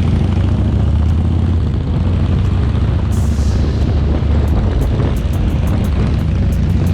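Harley-Davidson Shovelhead V-twin motorcycle engine running steadily under way, a loud, even low drone with road and wind noise.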